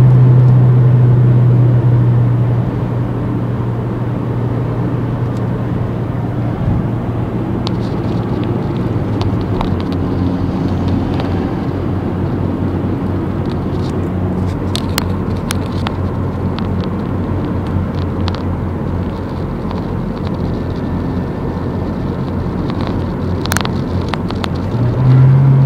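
Mazdaspeed 3's turbocharged 2.3-litre four-cylinder through an HKS cat-back exhaust, loud under power for the first couple of seconds, then settling to a quieter steady drone while cruising. It picks up again just before the end.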